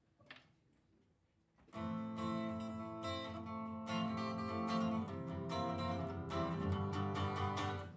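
A small band starts the song's instrumental intro about two seconds in, guitar strumming chords over sustained low notes, the chords struck about once a second.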